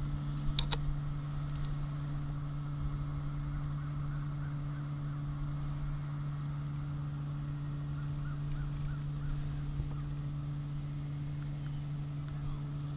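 A steady low machine-like hum with two even tones, a sharp click about half a second in, and a few faint high chirps.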